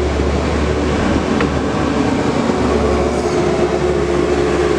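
Steady, loud mechanical rumble with a faint held hum over it.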